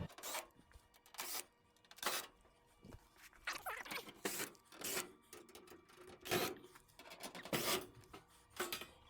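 A series of short, irregular scrapes and clicks from hand tools prying at a Speed Queen washing machine's cabinet panel to pop it off.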